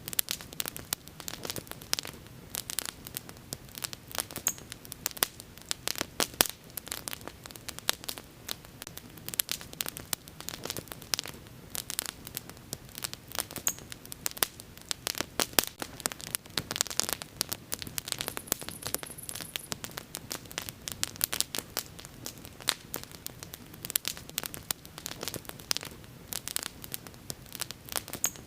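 Bonfire of burning wood crackling, with a dense, irregular run of sharp crackles and pops over a soft steady hiss. A brief high hiss comes a little past the middle.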